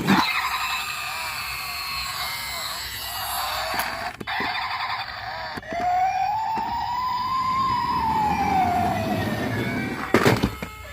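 Electronic emergency-vehicle siren sounds, several warbling tones layered together, then one long tone that rises and falls from about six seconds in. There is a sharp clack at the start and another about ten seconds in.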